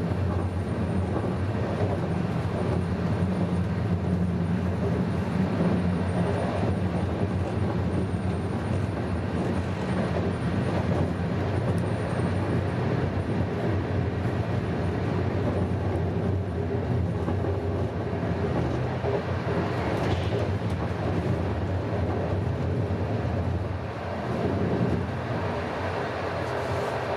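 Passenger train running along the line, heard on board: a steady noise of the carriage and its wheels on the rails, strongest in the low range, easing slightly near the end.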